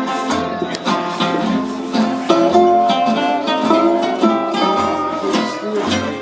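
Live band playing the instrumental opening of a country blues song. Strummed guitars and a lead melody line play over steady, evenly spaced bass notes.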